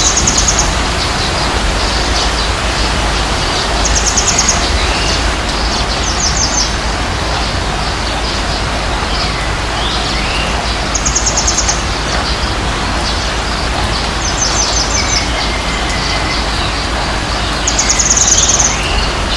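Birds calling outdoors: a short, high trilled call repeats about every three to four seconds, with a few fainter sliding notes between. Both sit over a steady hiss and low rumble.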